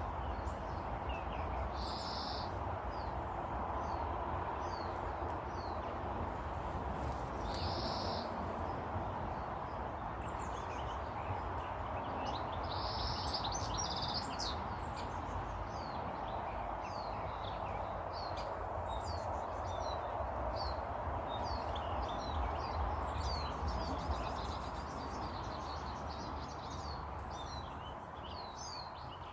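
Small garden birds chirping repeatedly, with three short, louder calls about six seconds apart, over a steady background hiss and low rumble.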